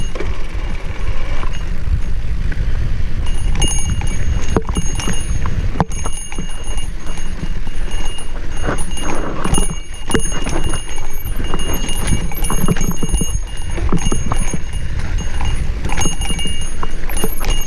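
Wind buffeting the microphone while a mountain bike rattles and knocks over a rough dirt singletrack, with irregular clacks from the bike and tyres hitting rocks and bumps.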